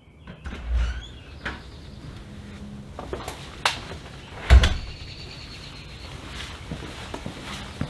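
A few scattered knocks and thuds, the loudest a heavy thump about four and a half seconds in.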